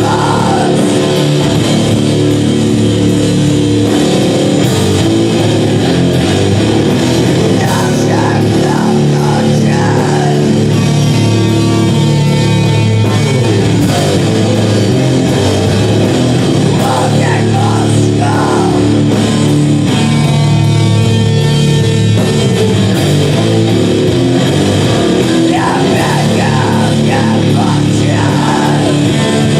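A rock band playing live: loud, dense, steady music led by guitar.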